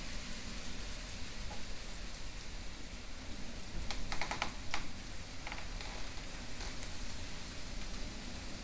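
Typhoon rain falling in a steady hiss, with drips tapping close by now and then and a quick run of taps about four seconds in.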